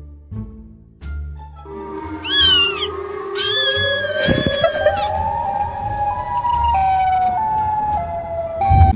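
Edited meme soundtrack: a few low thuds, then a long wailing tone that climbs slowly in steps, like a siren or rising suspense music. About two and a half seconds in, short high cat-like cries sound over it.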